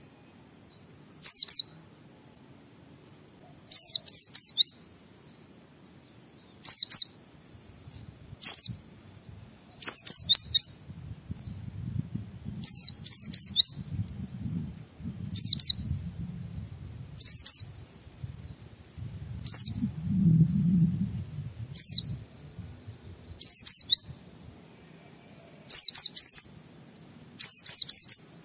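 Pleci (white-eye) singing in short bursts of high, quickly falling chirping notes, repeated every second or two. A faint low rumble runs underneath through the middle.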